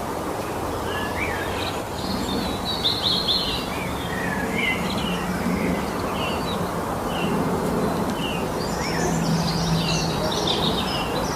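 Several wild birds singing and chirping at once, with short calls and trills overlapping, busiest near the end, over a steady background rush.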